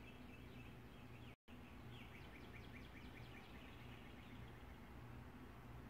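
Songbirds singing faintly outdoors: scattered chirps, then a quick trill of rapid repeated notes about two seconds in. The sound briefly cuts out completely just before the trill.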